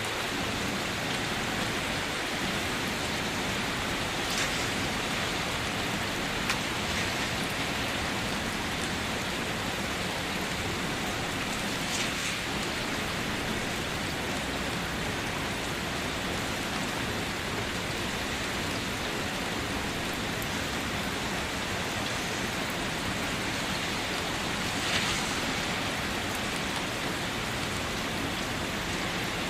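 Steady, even rainfall with close drops splashing on a surface, and a few louder single splashes now and then. No thunder.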